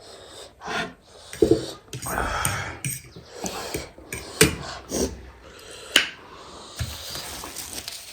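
People eating spicy chicken keema noodles close to the microphone, with several sharp clinks of cutlery against dishes among the eating and breathing noises.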